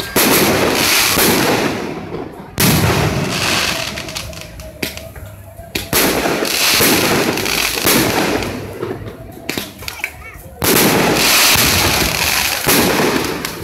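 Consumer aerial fireworks going off: four sudden loud bangs, a few seconds apart, each followed by a couple of seconds of dense hissing crackle that fades away.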